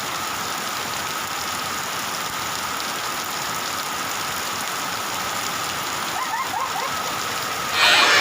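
Steady heavy rain falling on surfaces, an even hiss. Loud voices break in near the end.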